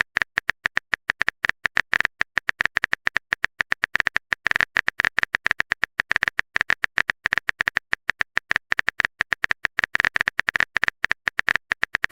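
A rapid, slightly uneven run of short clicks, about nine a second, each with the same high tick. It sounds like a text-typing sound effect, as used when chat messages are typed out on screen.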